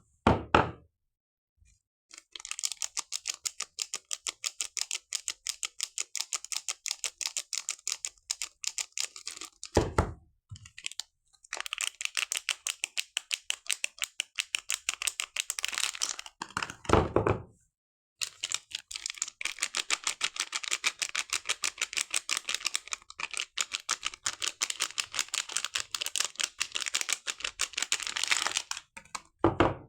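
Soap packaging being handled and unwrapped: long runs of rapid, even, crisp clicking and crinkling, broken by several short heavier thumps and a few abrupt silent gaps.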